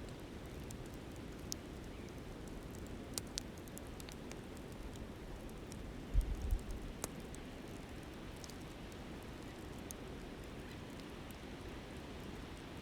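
Campfire crackling, with scattered sharp pops over the steady rush of a flowing river. A short low thump comes about six seconds in.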